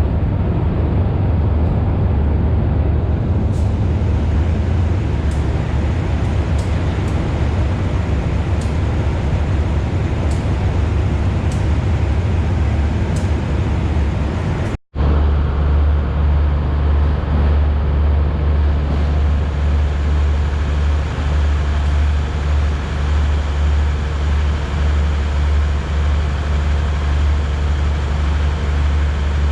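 Steady low vehicle rumble with no speech. It cuts out briefly about fifteen seconds in, and after that the low rumble is heavier.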